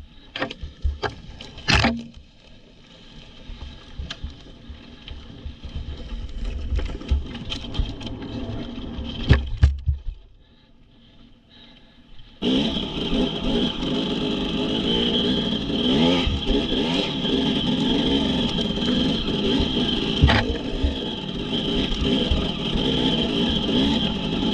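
Knocks, scrapes and rattles over a low rumble, then about halfway through a dirt bike's engine comes in suddenly and keeps running loudly, its pitch wavering.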